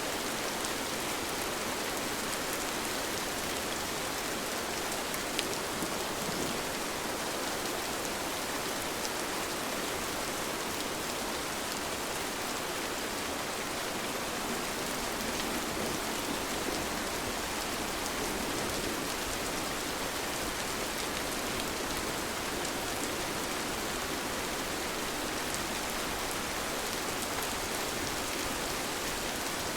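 Steady, even rain falling, with occasional single drops standing out. There is no thunder.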